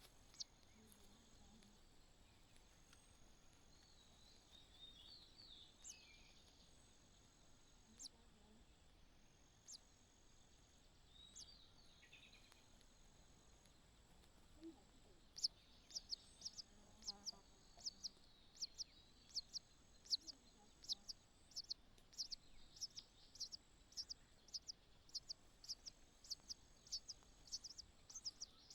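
Faint, sharp, high chirps of a small bird, a few scattered ones at first, then repeated rapidly about twice a second from about halfway through. A thin, high, steady whine comes and goes above them.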